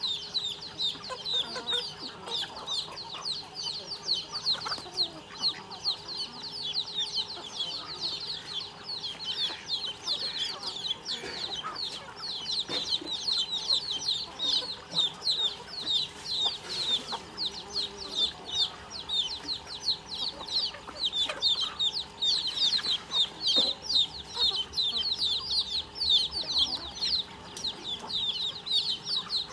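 A flock of chickens feeding, giving a dense stream of high, short peeps that overlap one another, several a second.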